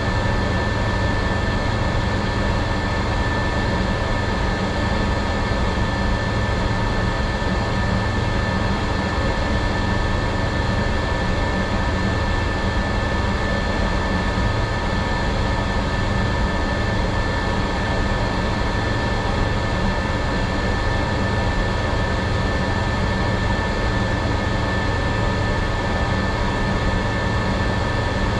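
Jet airliner turbines running steadily on the ramp: a low rumble under a steady high whine, unchanging throughout.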